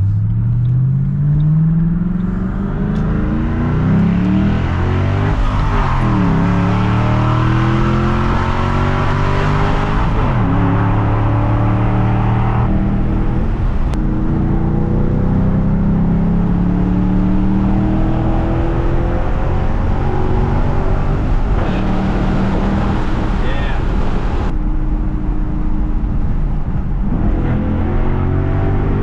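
2007 Ford Mustang GT's 4.6-litre V8, cammed and tuned for the cams, being driven hard; its engine note climbs and drops several times.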